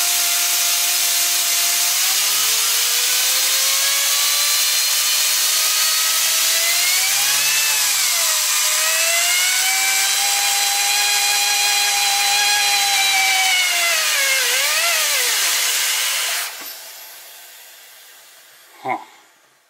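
A vacuum cleaner running hard to drive a LEGO vacuum-turbine engine, whose back-side gearing and axles are unlubricated. A loud rushing noise carries whining tones that climb, dip and recover in pitch. The noise cuts off about 16 seconds in and winds down, followed by a few small plastic clicks as the LEGO engine is handled.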